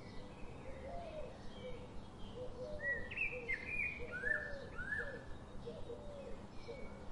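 Birds chirping: a running series of short, low curved notes, joined about three seconds in by louder, higher chirps and rising sweeps, over steady background noise.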